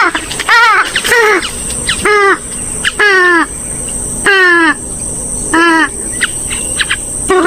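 Gallinule calls (the swamphen and moorhen group of rails): loud, harsh calls repeated every second or so, each sweeping down in pitch, with a few short high squeaks between them.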